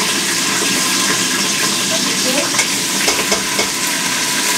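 Spice paste of shallot, garlic, onion and candlenut, with sliced leek and green chilli, sizzling steadily in hot oil in a steel pot as it is stir-fried. A few light clicks of the utensil against the pot come about three seconds in.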